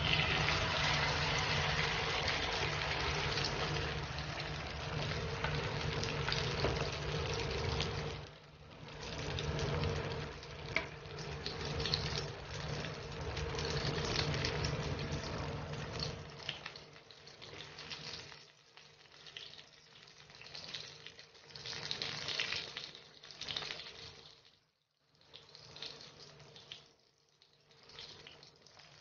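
Egg-dipped grilled eggplant sizzling in hot oil in a frying pan, a tortang talong frying. The sizzle starts as the eggplant goes in and is loudest for the first several seconds, then grows uneven and fades, dropping out briefly near the end.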